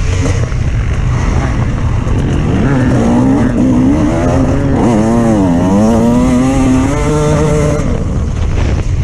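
Off-road vehicle engine revving over a steady low rumble: its pitch climbs a few seconds in, dips about halfway, then rises again and holds before fading out near the end.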